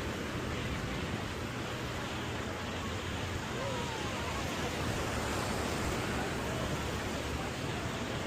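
Steady rushing of ocean surf mixed with wind buffeting the microphone, an even noise with no sharp events.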